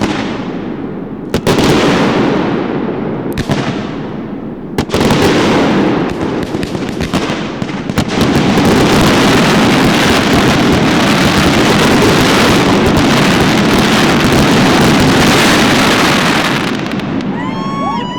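Aerial fireworks going off: a few sharp booms spaced a second or two apart, then from about halfway a dense, continuous barrage of booms and crackle that dies away near the end, where voices start whooping.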